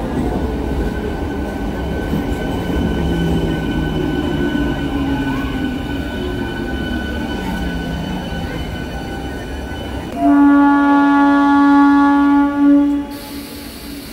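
Hyderabad MMTS electric multiple-unit local train running along the platform: a steady rumble of wheels and motors, with a whine that slides down in pitch. About ten seconds in a train horn sounds one loud steady note of about three seconds, followed by a short second toot.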